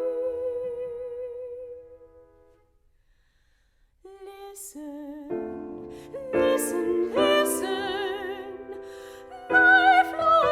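Classical soprano singing an art song with piano accompaniment: a held note fades away, there is a pause of about a second, then the voice returns with a wide vibrato over piano chords that enter and are struck again several times.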